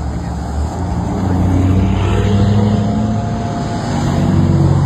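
Car engine running and revving, its pitch shifting and its loudness swelling twice, as under acceleration.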